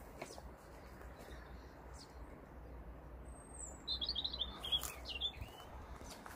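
A small songbird sings a short phrase about three seconds in: a thin high whistle, then a quick run of chirps. A few faint clicks can be heard around it.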